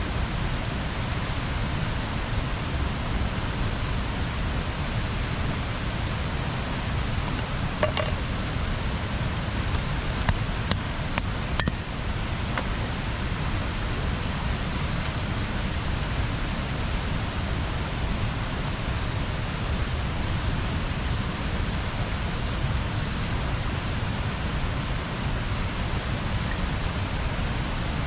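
Wood bonfire burning: a steady rushing hiss with a handful of sharp crackles and pops between about eight and twelve seconds in.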